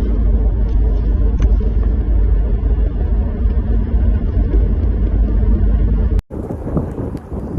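Steady low rumble of a car driving. About six seconds in it cuts off abruptly at an edit, and a different, noisier sound with scattered knocks follows.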